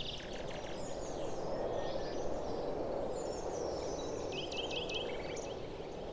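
Small birds chirping in short high notes, with a quick run of repeated chirps about four seconds in, over a steady outdoor rushing noise.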